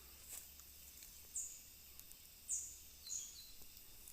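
Faint, short, high-pitched bird chirps, about four of them spaced roughly a second apart, with a soft click near the start.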